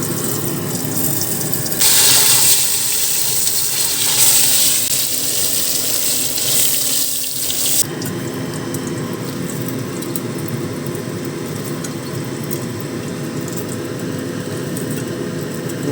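Kitchen tap running for about six seconds, starting about two seconds in and cutting off sharply; a quieter steady hiss carries on afterwards.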